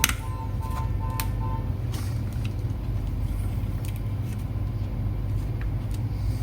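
Scattered small clicks and taps of a tiny screwdriver and laptop parts being handled, over a steady low rumble.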